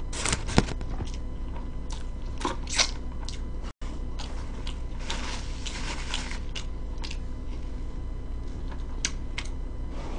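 Close-miked chewing of a thick fish sandwich: a sharp bite sound about half a second in, then irregular wet chewing and mouth sounds. A steady low hum runs underneath, and the sound drops out briefly just before four seconds in.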